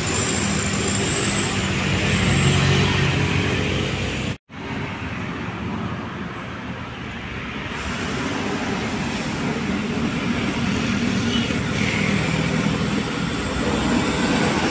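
Engines of heavy vehicles, buses and trucks, running as they climb a steep road, with steady tyre and traffic noise. The sound drops out sharply for a moment about four seconds in.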